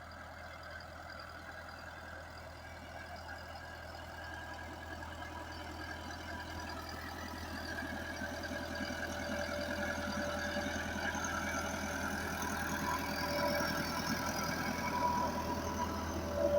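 Massey Ferguson 385 tractor's four-cylinder diesel engine running steadily under work, growing gradually louder.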